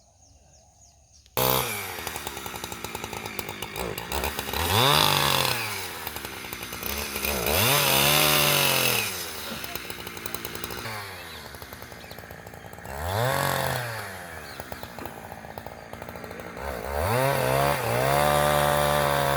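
Heavy vehicle engine running and revving up and back down four times, each rev rising in pitch and falling away over a second or two.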